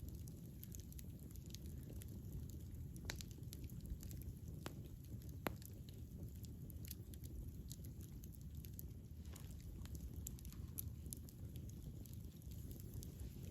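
Wood fire burning with a steady low rumble and scattered sharp crackles and pops, a few louder pops a few seconds in.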